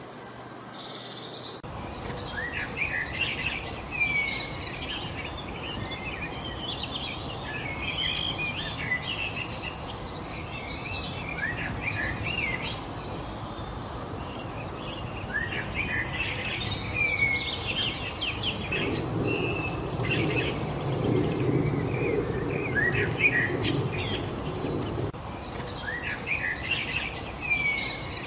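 A chorus of many songbirds chirping and trilling over a steady background hiss. A low rumble rises under the birds for a few seconds about two-thirds of the way through.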